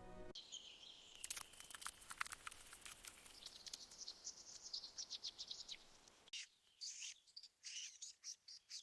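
Cockatiels chirping: many short, high chirps in quick runs, faint, easing off for a moment about six seconds in before more chirps follow.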